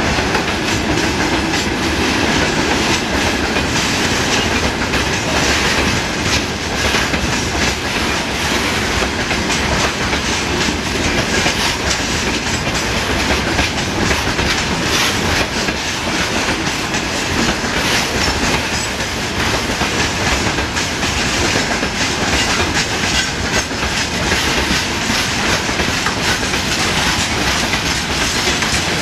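A freight train's wagons rolling past close by: a steady loud rumble with the wheels clattering over the rail joints.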